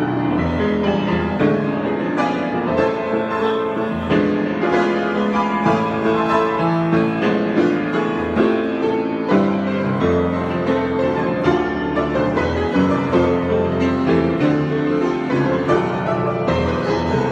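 Solo piano improvisation, with overlapping held notes and chords playing continuously.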